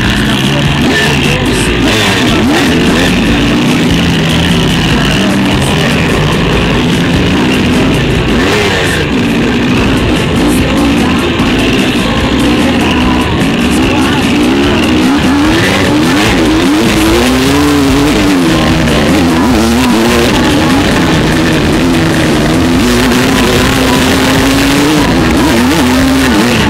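Dirt bike engine revving up and down continuously as it is ridden across rough ground, heard close up from the bike itself.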